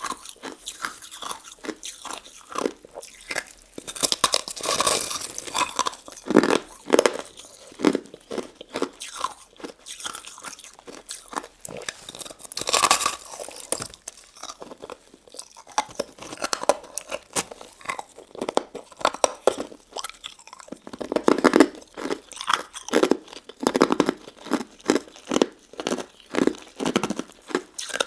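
Close-miked crunching and chewing of a frozen dessert: hard ice crystals and jelly pieces cracking between the teeth in quick, irregular crackles, with louder bites now and then.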